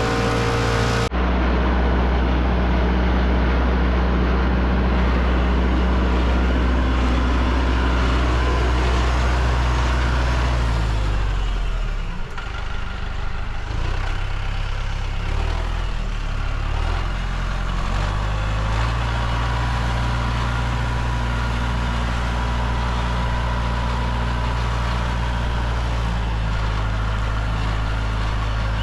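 A vehicle engine running steadily. About a second in, the sound jumps abruptly to a slightly different engine note. Between about 11 and 19 seconds the engine's speed dips and wavers before it settles back to a steady run.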